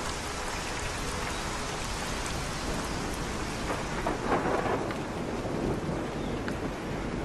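Steady rain, with a louder swell about four seconds in.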